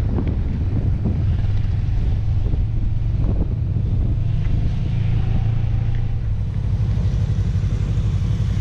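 Honda CB750F's air-cooled inline-four engine running at low speed, a steady low rumble.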